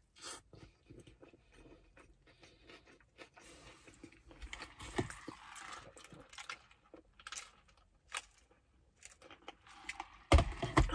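Mouth noises of a person chewing a bite of cheeseburger, with small wet clicks, then sipping a drink through a straw. A loud knock near the end.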